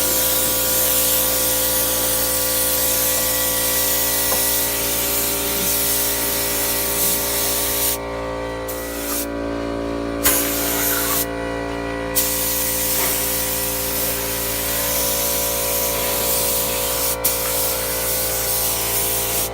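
Primer sealer being sprayed: a steady hiss of spray that breaks off briefly three times around the middle, over a steady hum.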